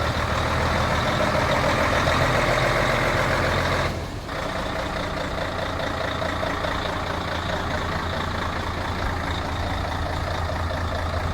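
Heavy diesel truck engine running steadily. About four seconds in the sound dips briefly, then carries on a little quieter.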